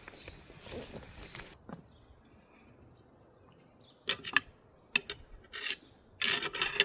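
Quiet outdoor background with a faint steady high tone, then several short sharp clicks and knocks from about four seconds in, ending in a brief burst of clatter.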